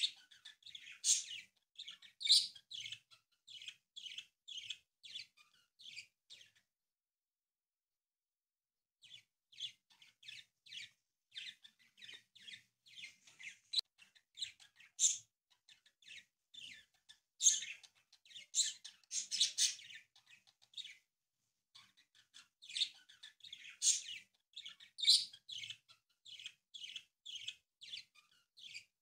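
A small bird chirping over and over, about three short high chirps a second, in long runs broken by pauses of a second or two.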